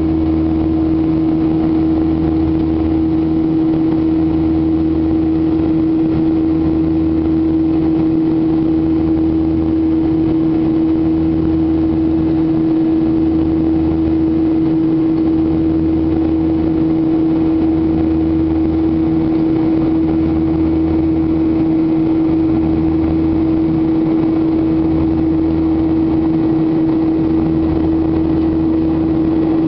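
Boeing 737-800's twin CFM56-7B turbofan engines running at steady power: a constant hum with a low throb that swells and fades about every two seconds.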